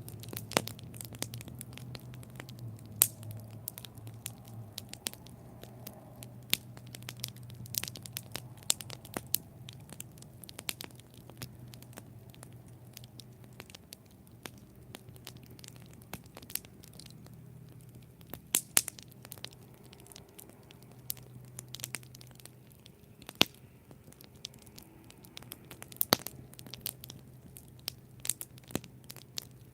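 Wood campfire burning, with irregular sharp crackles and pops over a low, steady rumble of flame.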